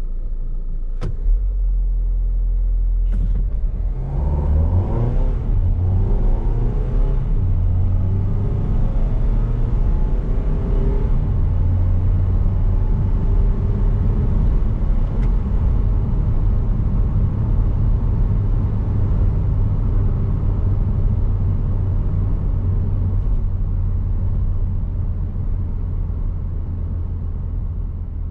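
2020 Renault Trafic's 2.0-litre turbo-diesel four-cylinder accelerating hard, its pitch rising and dropping back through several quick dual-clutch upshifts, then settling into a steady drone at speed that fades near the end. Two sharp clicks come in the first few seconds.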